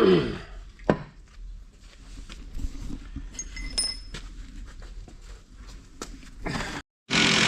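Metal clinks and light knocks of steel gears and gearbox parts being handled, with a sharp ringing tap about a second in and small ringing clinks a little past the middle. Near the end, after a brief cut, a loud steady noise starts.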